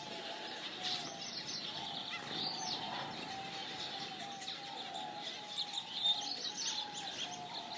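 A mix of birds chirping and calling together, with many short high chirps over a run of lower short notes.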